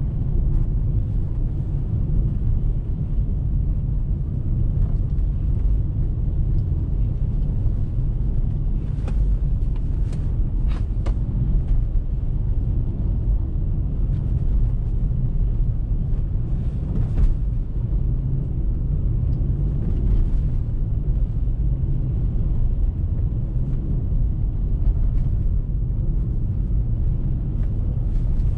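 Car driving on a snow-covered road: steady low rumble of engine and tyres, with a few faint ticks now and then.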